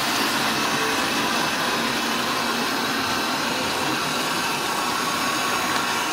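Electric model train running on its track: a steady whir of its small motor and wheels on the metal rails.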